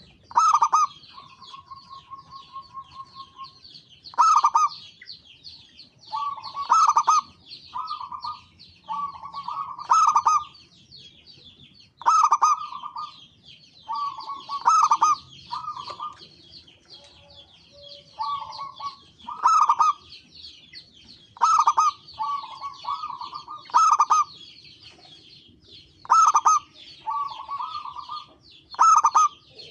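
Zebra dove (perkutut) cooing over and over, a loud, clipped call phrase every two to three seconds. Fainter, high-pitched chirping runs underneath.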